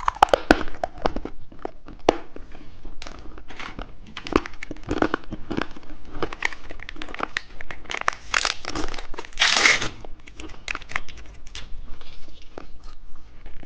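Plastic candy wrapper crinkling and tearing as a lollipop is unwrapped: a run of crackles, with a louder rip a little past the middle.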